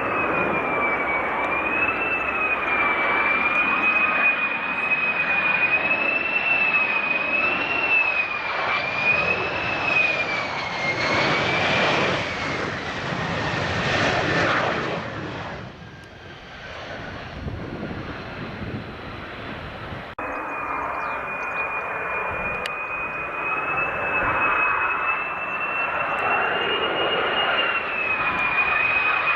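Military jet engines running with a high, wavering whine over a broad roar. The roar swells about twelve to fourteen seconds in, drops away briefly, then builds again.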